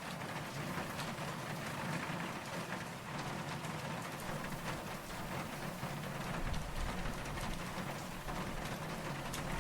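Steady rain falling, with many individual drops ticking close by. About halfway through, a low rumble of distant thunder comes in underneath and keeps going.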